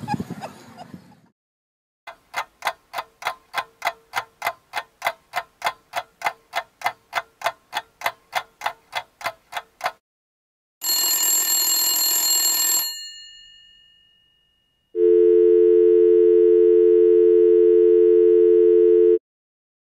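Telephone sounds in sequence. First comes an even pulsing of short beeps, about three a second, for some eight seconds. Then a bell-like ring rings out and fades, and a steady two-tone dial tone holds for about four seconds before cutting off abruptly.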